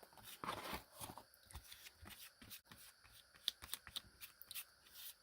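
Faint rustling of paper and light taps and clicks of craft materials being handled on a work table, loudest about a second in.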